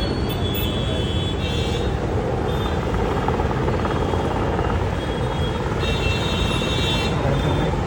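Military aircraft flying overhead: a steady engine rumble, with a high thin whine that comes and goes every second or two.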